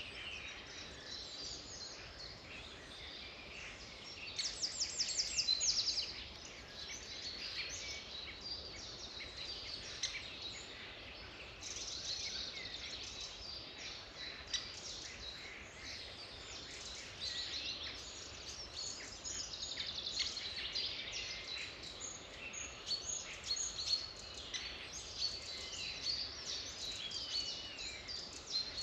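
Several songbirds singing and calling at once, overlapping chirps and short phrases, with a fast trill about five seconds in as the loudest part.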